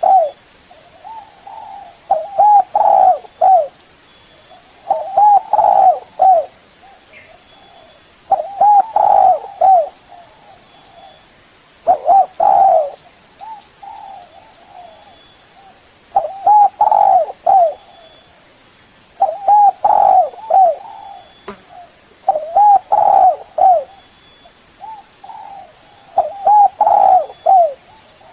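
Spotted dove (Spilopelia chinensis) cooing: short phrases of several rounded coo notes, repeated about every three to four seconds with quiet pauses between. It is the call used to lure and challenge rival doves.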